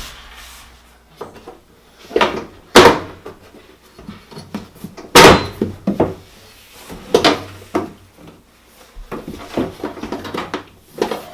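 Electrolux dryer pedestal drawer and its slide rail being knocked and pushed into place: a series of sharp knocks and bangs, the two loudest about three and five seconds in.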